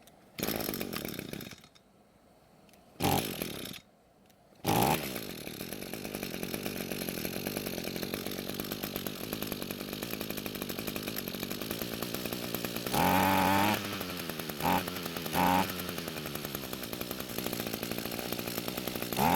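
Echo string trimmer's small two-stroke engine being pull-started: two short bursts, then it catches about four and a half seconds in and idles steadily. Later several brief throttle blips rise and drop back, the engine bogging down when the trigger is squeezed quickly, which the owner cures by turning the fuel screw out to give it more fuel.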